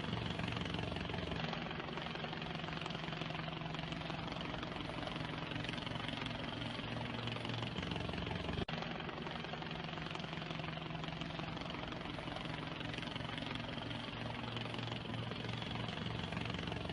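A steady engine drone with a low hum, unbroken except for a brief dip about eight and a half seconds in.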